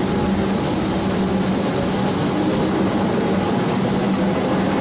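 Comeng electric suburban train pulling out of the station: steady running noise of the motors and wheels on the rails, with a steady low hum under it.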